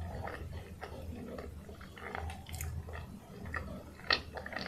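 Close-up chewing of a soft steamed peanut bun: irregular wet mouth clicks and smacks, with one sharper, louder smack a little after four seconds in.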